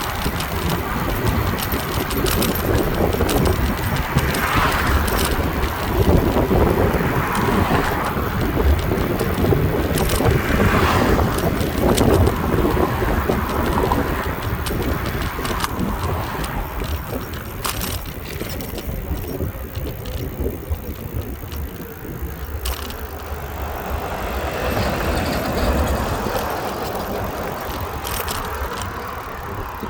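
Riding a bicycle: wind buffeting the microphone and a steady rumble from the ride, with scattered clicks and rattles.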